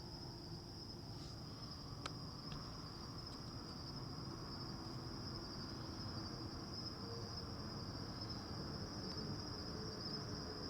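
Crickets chirping in a steady, continuous high-pitched chorus, over a low rumble that grows slightly louder, with a faint click about two seconds in.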